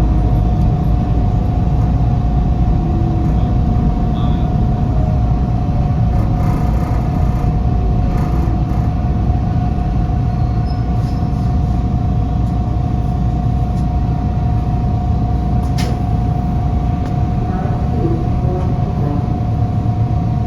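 Inside a Toronto subway car: steady low rumble of the train with a constant hum running through it. The rumble is heaviest at the start and eases off slightly.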